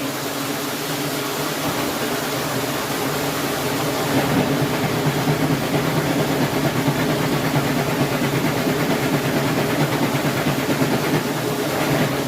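Washing machine running with a steady mechanical hum over a hiss, growing a little louder about four seconds in.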